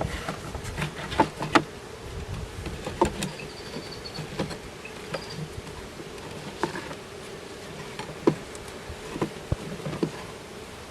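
Honeybees buzzing in a hive, a steady hum, with scattered sharp clicks and knocks from handling the hive.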